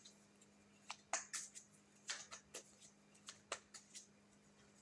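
Faint taps and rustles of tarot cards being handled and laid down: a scattered series of short, sharp clicks.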